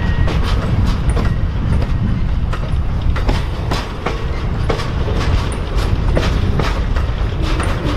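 Amtrak Auto Train passing close by, its bi-level autorack car carriers rolling past with a steady low rumble and irregular sharp wheel clicks and clacks.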